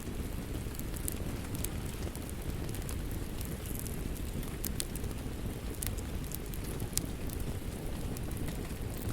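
Wood fire crackling: a steady low rumble of burning with irregular sharp pops and snaps, one louder pop about seven seconds in.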